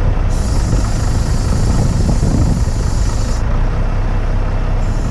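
Mitsubishi Fuso crane truck's diesel engine running with a steady low rumble. A high hiss comes in near the start and stops about three and a half seconds in.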